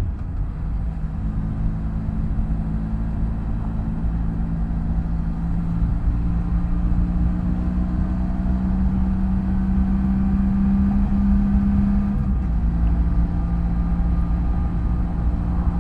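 BMW F800GS parallel-twin motorcycle engine running at a steady cruise, with wind and road rumble. Its pitch climbs slowly, then dips a little about twelve seconds in.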